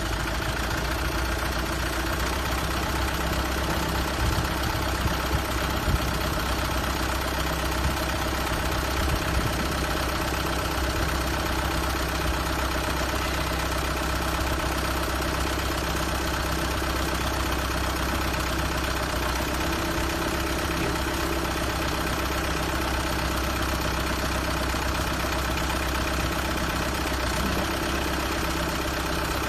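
A 120 hp four-wheel-drive agricultural tractor's diesel engine idling steadily at a constant speed, with a few brief, slightly louder knocks in the first ten seconds or so.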